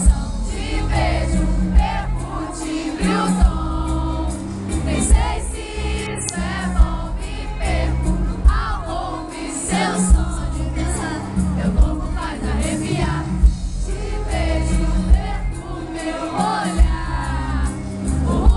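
Live pop music over a concert sound system: sung vocals over a heavy bass beat that hits about every second and a half, with many voices singing along.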